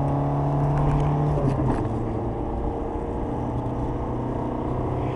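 Renault Kangoo's diesel engine heard inside the cabin at speed: a steady drone over road noise, its note breaking up and dropping back about a second and a half in, then running on steadily.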